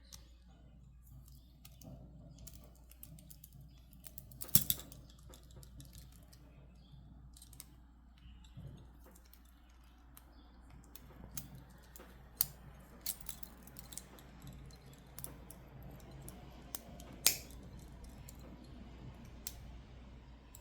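Scattered sharp clicks and taps of stone beads being handled while a black tourmaline and clear quartz bracelet is restrung, over a low steady room hum. The loudest are a double click about a quarter of the way in and a single click toward the end.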